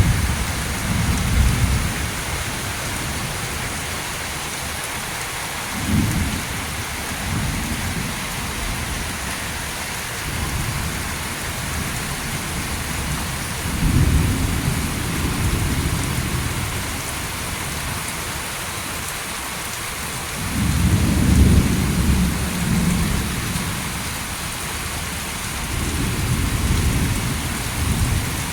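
Heavy rain falls steadily, with rolling thunder rumbling several times. The loudest peal comes about two-thirds of the way through.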